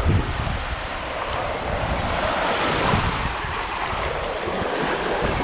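Ocean surf washing steadily, with wind buffeting the microphone in low gusts.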